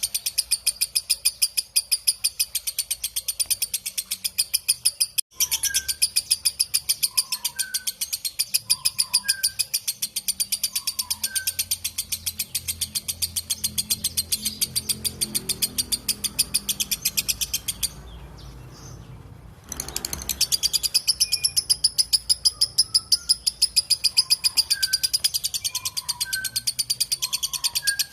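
Lovebird 'ngekek' song: a long, unbroken, shrill chattering trill of rapid high notes. It stops for a moment about five seconds in and for about two seconds near two-thirds through, then picks up again.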